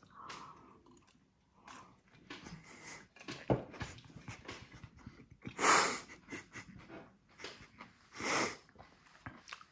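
A man chewing a big mouthful of chicken wrap, with soft wet chewing clicks. Two heavy breaths come through about six and eight seconds in.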